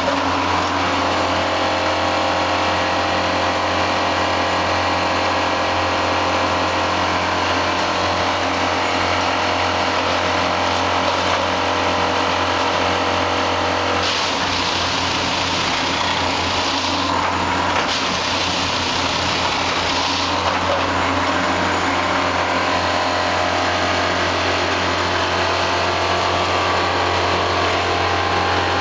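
Engine of a railway track maintenance machine running steadily, a constant hum with a hissing overlay. A little past halfway there are two stretches of louder hiss, each a few seconds long.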